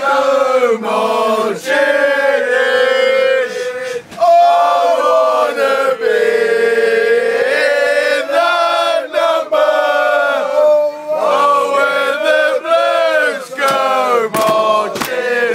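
A group of male football fans singing a chant together, loud and sustained, with a few sharp hits near the end.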